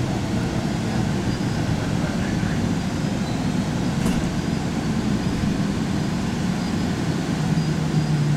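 Airport people-mover train running, a steady low rumble heard from inside the car as it rolls along the guideway into the station. A steady low hum comes up near the end.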